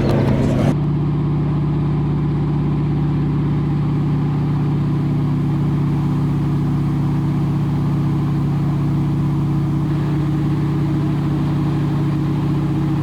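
T-6 Harvard's Pratt & Whitney R-1340 Wasp radial engine running steadily at climb power just after takeoff, heard from inside the cockpit as a steady drone. A hiss over it cuts off less than a second in.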